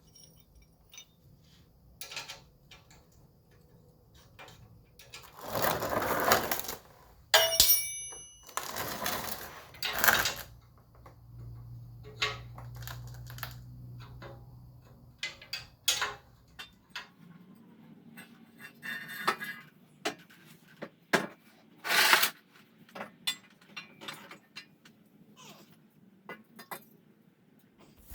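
Metal exhaust pipes being worked loose and handled: scattered clanks and knocks, one ringing metallic clang about seven seconds in, and two longer rasping noises early on the way through.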